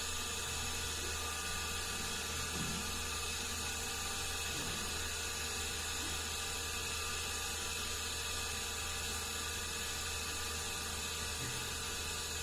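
Steady background hiss with a low hum and no distinct sound events.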